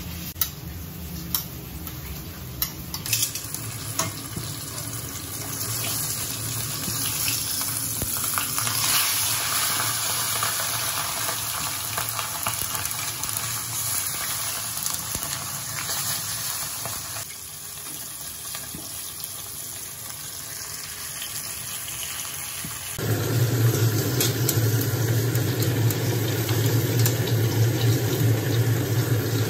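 A few sharp clicks from a pepper shaker being tapped. Then fish (talakitok, trevally) frying in oil in a wok, a steady sizzle. About 23 seconds in, a sudden change to a louder steady low rumble as a pot of okra boils on the gas stove.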